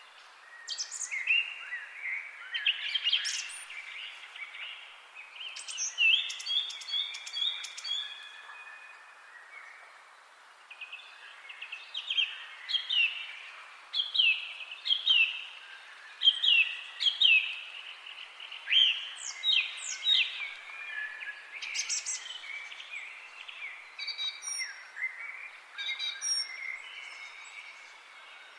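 Several songbirds singing and chirping: many short notes, mostly quick falling chirps, over a soft steady hiss.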